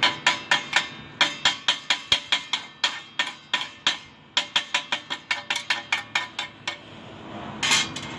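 Chipping hammer rapidly tapping slag off a fresh stick-weld bead, about five or six sharp metallic ticks a second with two brief pauses. The tapping stops near the end and is followed by a short scraping sound.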